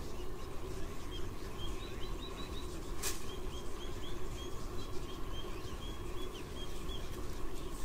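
A bird calling in a quick run of short, high chirping notes, several a second, over a steady hiss and hum, with one sharp click about three seconds in.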